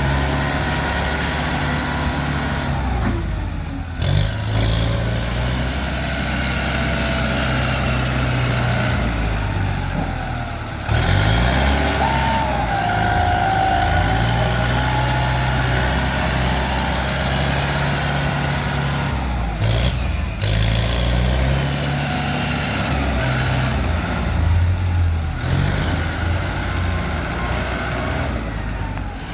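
Kubota M108S tractor's diesel engine working under load as it pushes dirt, speeding up and slowing down several times.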